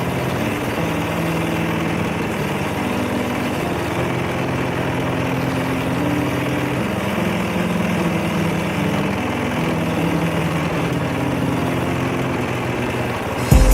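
Craftsman riding lawn mower's engine running steadily.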